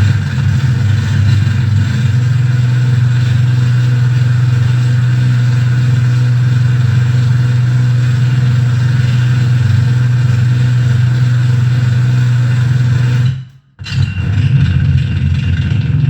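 Electronic noise-rig drone: a loud, steady low hum under a harsh, gritty wash of noise, typical of mixer feedback. It cuts out for about half a second near the end, then comes back.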